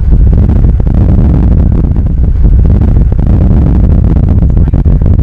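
Loud, gusty low rumble of strong storm wind buffeting the microphone near a tornado, with irregular buffets throughout.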